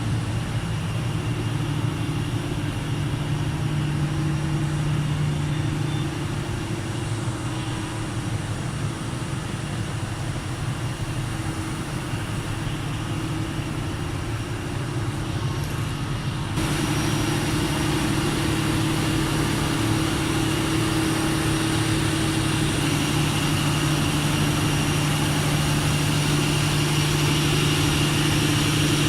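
Mitsubishi 600 kW diesel generator set running steadily with a constant low hum. About two-thirds of the way through the sound suddenly gets louder and brighter, then holds steady.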